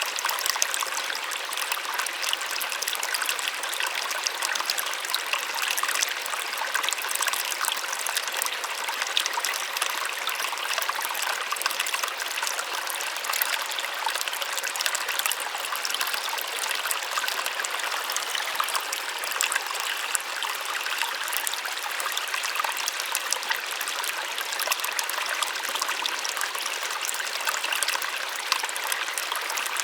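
Small waterfall splashing steadily, a soft, even rush of falling water with fine splashes.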